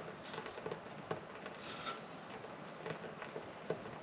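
Irregular crackles and snaps from dry tumbleweed and fat wood kindling in a wood stove as a fire is being started.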